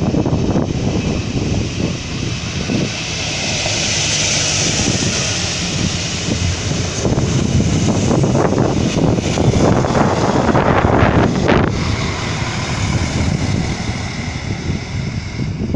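A train running past at the station, its noise swelling and easing, loudest a little past the middle with a run of short sharp clatters, while wind buffets the microphone.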